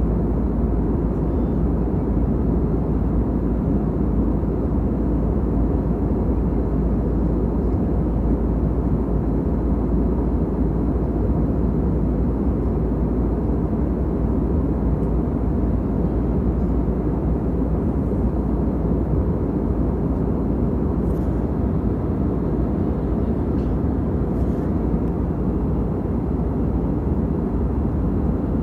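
Aeroplane in flight: a steady, even low drone of engine and airflow noise that holds constant throughout.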